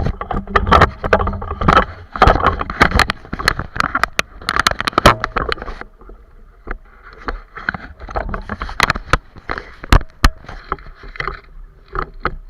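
Water splashing and knocking against a small boat's hull, a rapid irregular patter of sharp slaps. Heavy low rumbling, like wind buffeting the microphone, fills the first half and then eases off, leaving quieter splashes and clicks.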